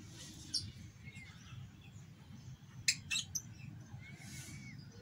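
Faint chirps of small birds over a steady low background rumble, with two sharp clicks close together about three seconds in.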